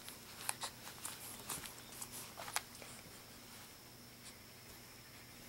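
Quiet room with a few faint soft clicks and rustles in the first half, then only a low steady hum.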